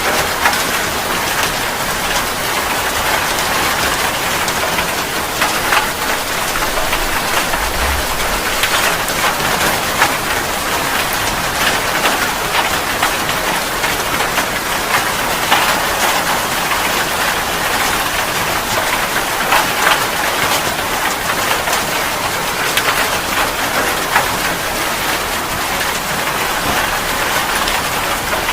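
Steady rain falling on a surface, a continuous hiss with many distinct drop hits throughout.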